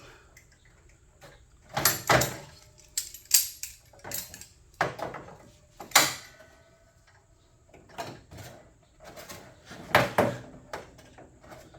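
Irregular metallic clanks and knocks as clamps are set on a sheet-steel hood panel, some followed by a short metallic ring.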